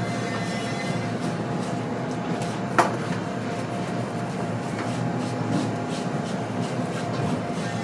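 A machine running steadily with a constant hum and whine, and a single sharp knock about three seconds in.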